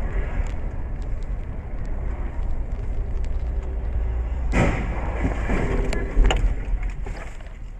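A car on the move: steady low road and engine rumble with scattered small clicks, a louder rush of noise a little past halfway, and a sharp knock soon after.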